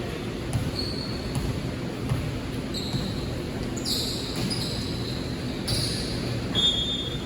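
Basketball game in play: the ball bouncing on the court and sneakers squeaking in short, high chirps several times, over a steady low background of the hall.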